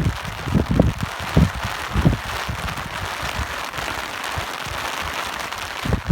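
Steady rain hissing, with gusts of wind buffeting the microphone in low rumbling thumps, thickest in the first two seconds and again near the end.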